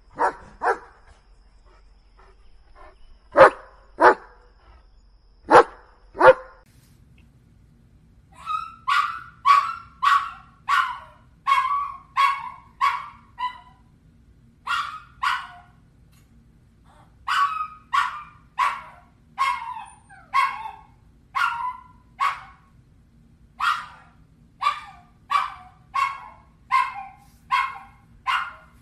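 German shepherd guard-barking: loud barks in three pairs a few seconds apart. Then, from about eight seconds in, a Yorkshire terrier yapping rapidly, roughly two short yaps a second in runs of several, with brief pauses between runs.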